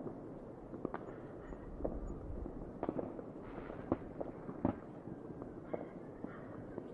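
Fireworks going off: scattered sharp bangs and pops at irregular intervals over a steady low rumble, the two loudest coming a little past the middle.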